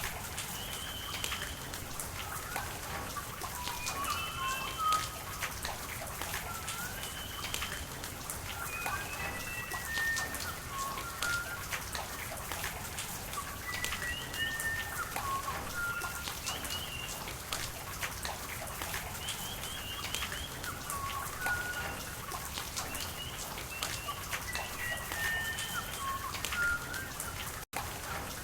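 Steady rain with raindrops pattering, mixed with many short bird chirps and whistles throughout. The sound cuts out for a split second near the end.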